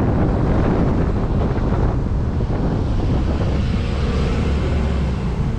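Wind rushing and buffeting over a helmet-mounted action camera's microphone while riding an electric motorcycle up a hill. A faint steady whine comes in a little over halfway through.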